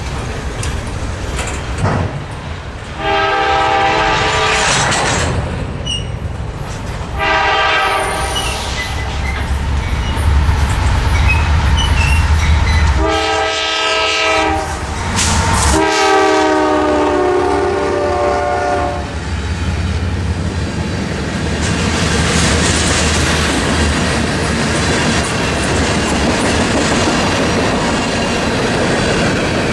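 Freight train locomotive sounding its horn in four blasts, the last one the longest, over the rumble of the approaching train; the train then rolls past with steady wheel-on-rail rumble and clickety-clack.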